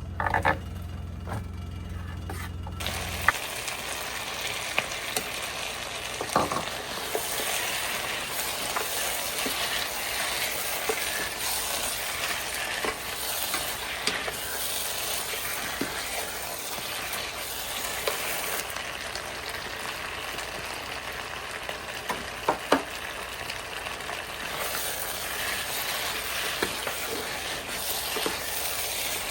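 Food frying in a hot pan, a steady sizzle with scattered sharp clicks of a utensil stirring against the pan. A low hum at the start stops about three seconds in.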